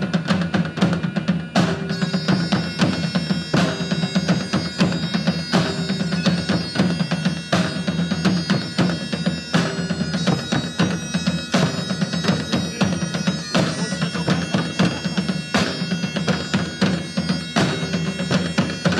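Instrumental folk music from a live band: a bagpipe melody over a steady drone, with drums beating in a regular rhythm, heavy strokes about every two seconds.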